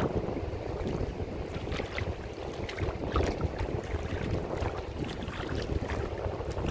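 Wind buffeting the microphone, a fluttering low rumble, with scattered faint ticks and crackles over it.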